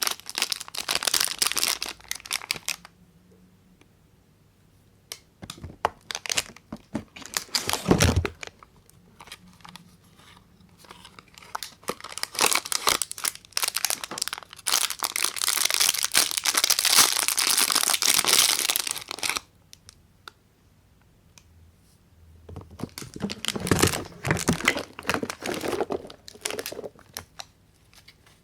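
Soap wrappers being crinkled and torn open by hand, in several bursts with quiet gaps between them; the longest stretch of crinkling and tearing comes midway. A single sharp knock sounds about eight seconds in.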